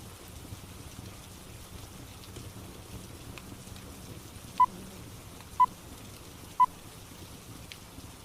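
Steady rain with faint fireplace crackles, and three short electronic beeps on the same pitch, one second apart, a little past the middle.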